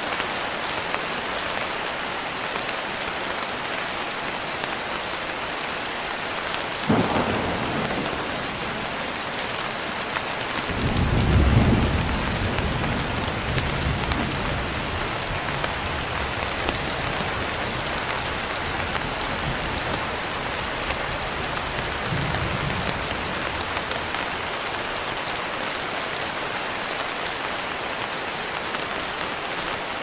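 Steady heavy rain with thunder: a sharp crack about seven seconds in, then a long low rumble rolling in around eleven seconds and dying away over several seconds, and a fainter distant rumble near the end.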